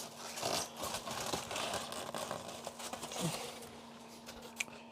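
Scraping, rustling and small clicks of a styrofoam box and its tape being handled and pulled apart, easing off near the end, over a faint steady hum.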